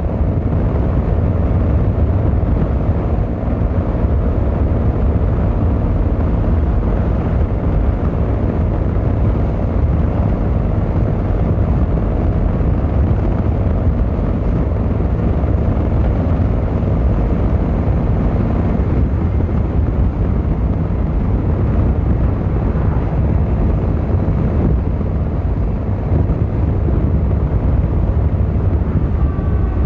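Yamaha XVZ1300 Royal Star's V4 engine and exhaust running steadily while riding, a low, even rumble.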